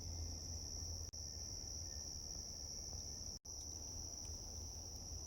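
Steady high-pitched chorus of night insects such as crickets, unbroken, with a faint low hum beneath it.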